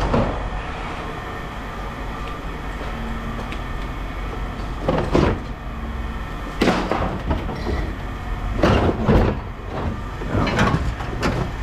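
Scrap metal being handled: a series of irregular metallic clanks and knocks, several close together in the second half, over a steady low rumble.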